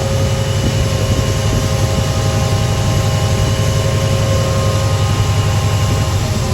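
A train's engine running steadily at the platform: a heavy low rumble with several steady whining tones above it.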